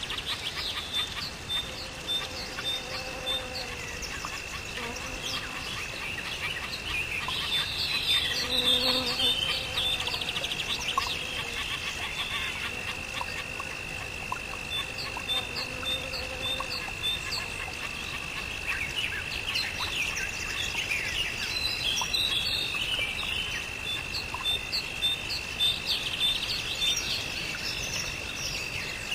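Birds chirping and calling, with short trilled phrases that come in clusters, over a steady high-pitched drone.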